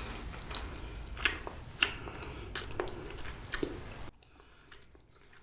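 A person chewing a mouthful of Japagetti black-bean-sauce instant noodles: wet squishing and sharp smacking clicks, the loudest about a second and two seconds in. The low background hum cuts off suddenly near the end.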